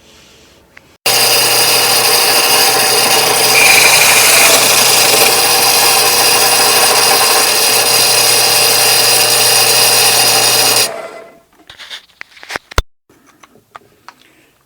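An electric power tool's motor runs steadily with a hum for about ten seconds, then is switched off and winds down, followed by a few sharp knocks of wood being handled.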